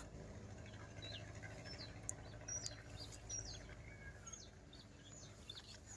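Faint bird calls: short high chirps scattered through, over a faint low steady hum.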